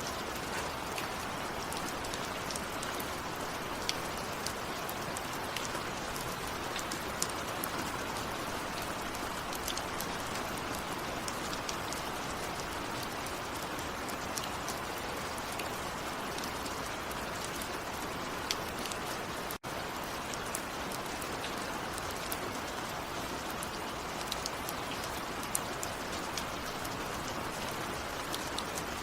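Steady rain falling, with many single drops ticking sharply through the downpour. The sound cuts out for an instant about twenty seconds in.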